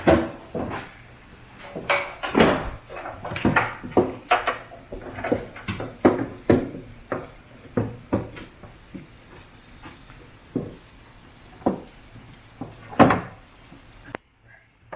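Irregular knocks, clicks and clatter of car parts and tools being handled, about one or two a second. The loudest knock comes near the end, and the knocking stops shortly after it.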